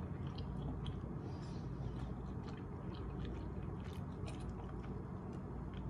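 Soft chewing of a soup dumpling with soy sauce, faint wet mouth clicks scattered through, over a low steady background hum.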